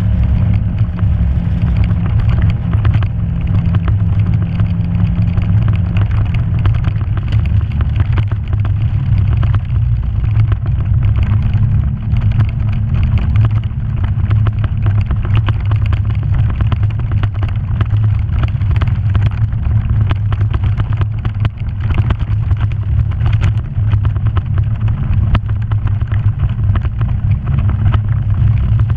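Off-road vehicle's engine running steadily while it drives a rough trail, with frequent rattles and knocks from the bumpy ground.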